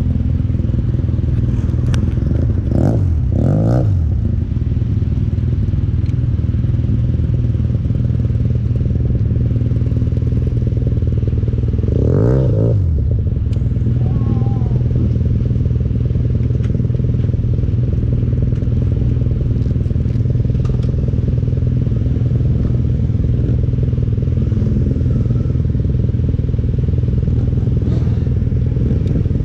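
Motorcycle engine idling steadily close by, among other idling motorcycles. An engine is briefly revved up and back down twice in quick succession a few seconds in, and once more near the middle.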